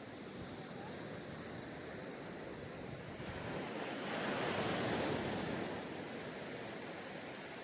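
Sea waves breaking on a sandy beach: a steady wash of surf, with one wave swelling louder about halfway through and then subsiding.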